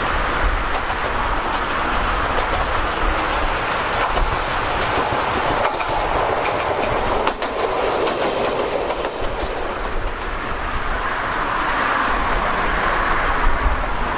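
Ichibata Electric Railway electric train approaching and passing close by, with steady running noise and its wheels clicking over the rail joints as it goes past.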